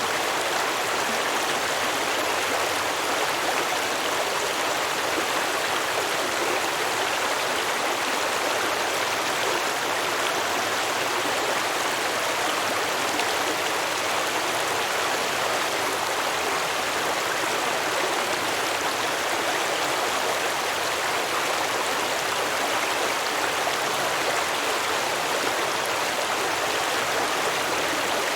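Small stream flowing and babbling over rocks, a steady, unbroken rush of water.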